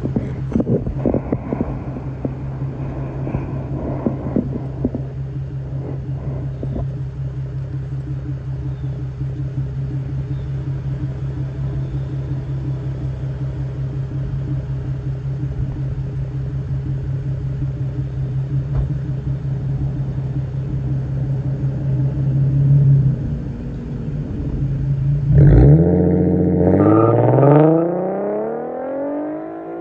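Infiniti Q50's 3.7-litre VQ37VHR V6 with a muffler delete idling steadily. About 25 seconds in it is revved hard, its pitch climbing fast for a few seconds under hard acceleration, then falling and fading near the end.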